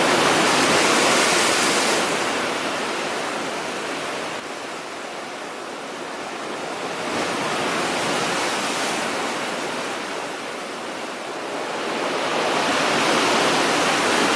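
Stormy sea surf: waves breaking and rushing up the shore in a continuous roar that swells and fades in surges, loudest at the start and again near the end.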